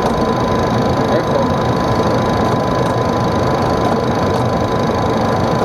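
Boeing 737 cabin noise on short final approach: a steady rush of engine and airflow noise with a thin, steady high whine.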